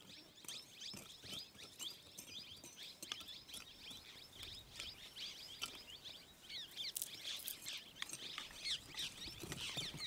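Many small birds chirping at once: short, quick, overlapping calls with a few sharp clicks among them, faint.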